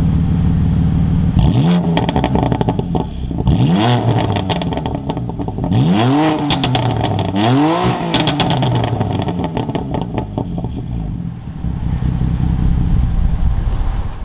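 BMW M4's S55 twin-turbo straight-six idling, then blipped four times, each rev rising and falling back. It pops and crackles from the exhaust as the revs drop, and then settles back to a steady idle.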